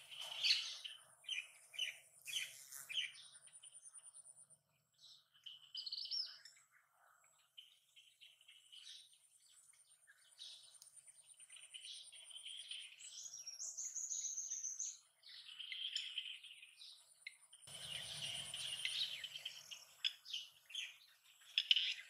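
Songbirds chirping and calling in a tree: a busy run of short chirps and varied whistled phrases, with a thin, steady high trill in the background at times.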